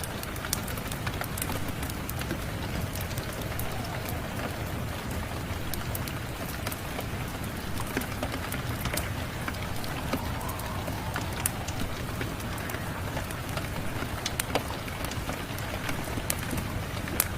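Steady rain with the irregular sharp pops and crackles of a wood fire burning in a fireplace.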